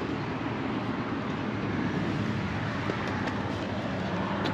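A 1967 Ford Mustang's 200 cubic-inch inline-six idling steadily, its exhaust loud.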